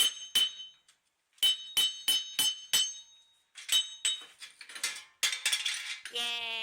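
Hammer blows on steel with a bright metallic ring, in quick runs of about three strikes a second separated by short pauses, the blows crowding together near the end.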